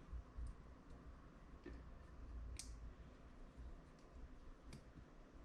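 Faint, sparse clicks of small carburetor parts being handled and fitted while the float is installed, with one sharper click about two and a half seconds in.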